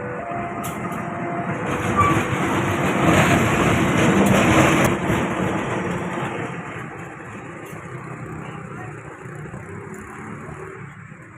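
A train passing close by at a level crossing, loudest a few seconds in, then fading away as it moves off.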